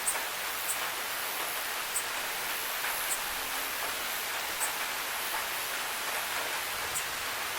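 Steady hiss of rain falling, with a few sharp, irregular ticks of single drops landing close by.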